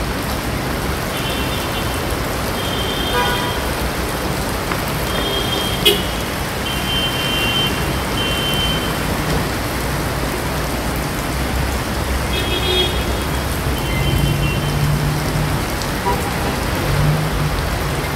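Heavy rain pouring steadily onto a flooded street, with traffic passing through the water and several short car-horn toots. A single sharp click about six seconds in.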